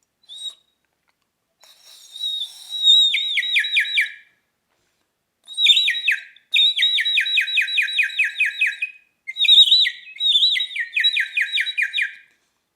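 Water-filled bird-call whistle being blown, giving a high warbling trill of quick falling chirps, several a second, like a bird's song. It comes in three runs with short pauses between them.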